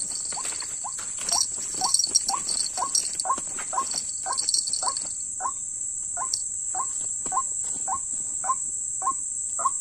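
White-breasted waterhen calling: a short rising note repeated a little over twice a second, without a break. A steady high buzz of crickets runs underneath.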